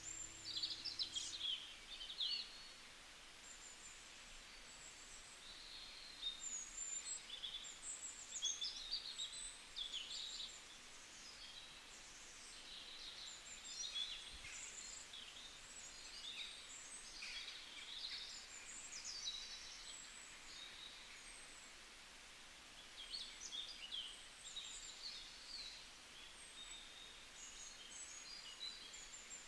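Birds chirping: clusters of quick, high twittering calls that come and go every few seconds over a faint background hiss.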